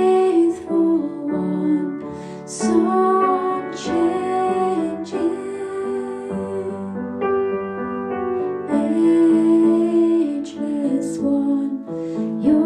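A slow, gentle song: piano accompaniment with a voice singing held notes.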